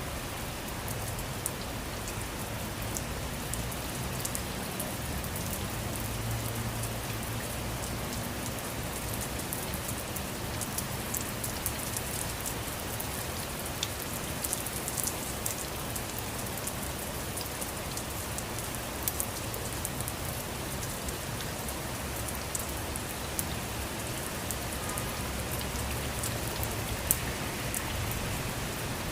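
Steady rain falling, with a constant hiss and many small drop ticks striking a surface, and a low rumble underneath.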